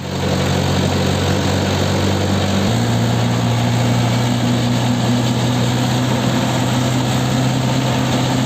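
Diesel tractor engine running steadily under way, with a steady droning note whose pitch pattern changes once, about a third of the way in.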